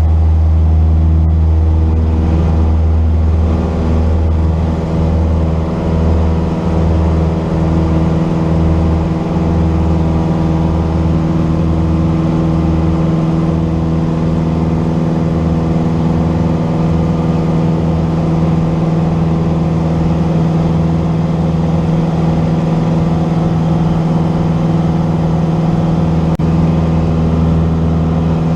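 Cessna 172's piston engine and propeller running steadily at constant power, with an even drone that holds its pitch.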